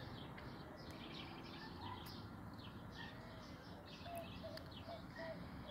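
Faint birds chirping in the background: a steady run of short high chirps, about three a second, joined in the second half by a few short, lower whistled notes.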